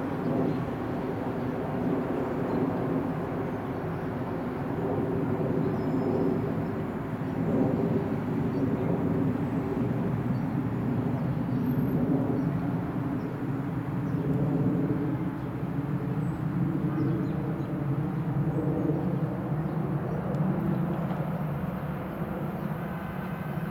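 Metro-North electric multiple-unit commuter train running in slowly over the interlocking switches: a steady rumble of wheels and motors with a low hum.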